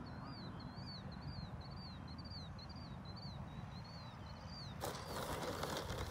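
A small bird repeating a short rising-and-falling chirp about twice a second over a steady low rumble of wind on the microphone. Near the end a loud rushing hiss starts suddenly.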